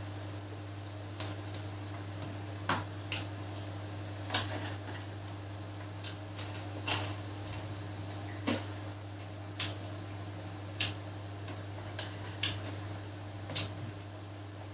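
Sharp, light clicks and taps at irregular spacing, roughly one a second, over a steady low electrical hum.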